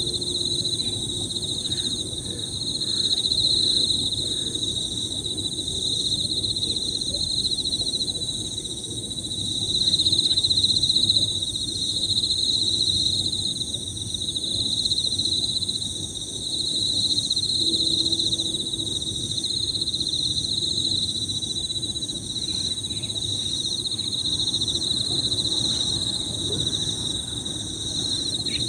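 Emma field crickets chirping without pause in high, overlapping trills that swell and fade slightly. A low steady background haze runs beneath them.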